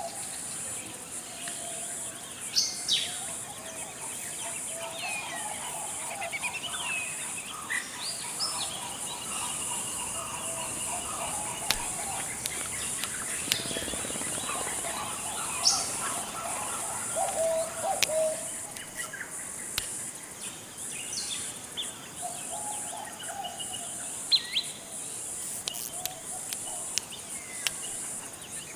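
Forest ambience: many birds calling and chirping in short whistles and trills over a steady, high-pitched insect drone.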